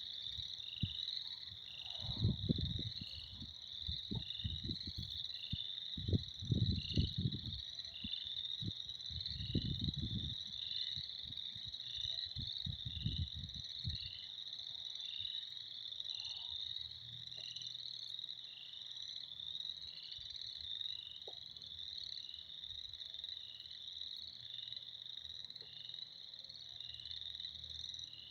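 Chorus of frogs calling: a dense, continuous high-pitched trilling, with short high notes repeating about once a second. Low rumbling gusts come and go during the first half.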